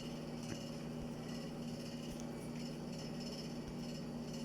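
Steady low hum with faint, scattered small ticks.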